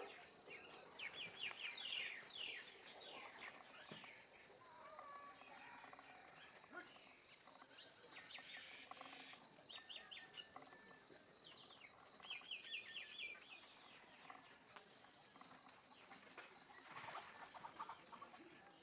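Faint outdoor ambience: birds chirping in several quick runs of short, high calls, over a steady high-pitched tone.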